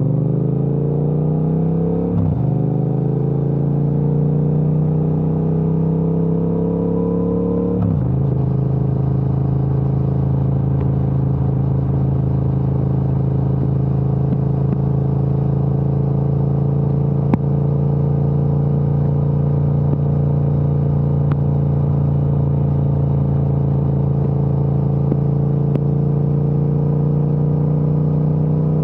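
Triumph Speed Twin 1200's parallel-twin engine through an aftermarket Vance & Hines exhaust, accelerating with rising pitch and upshifting twice, about two seconds in and about eight seconds in. It then runs at a steady cruise.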